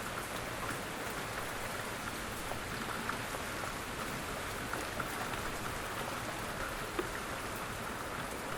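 Steady light rain falling, an even patter with scattered individual drops ticking on a surface.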